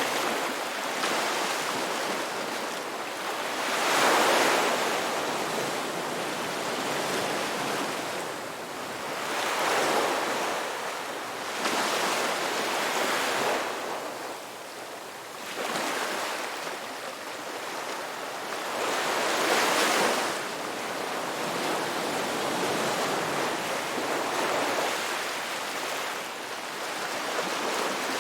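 Ocean surf washing in, a steady rush of water that swells louder with each incoming wave every several seconds.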